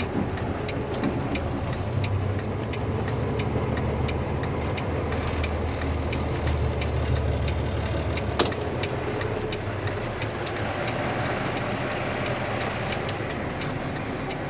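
Diesel engine of a freight tractor-trailer running steadily, with a low rumble that eases after about seven seconds, light regular ticking in the first half, and one sharp click about eight seconds in.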